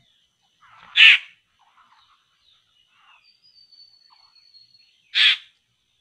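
Two loud, short, harsh bird calls about four seconds apart. Faint chirps and one long thin high whistle from other birds come between them.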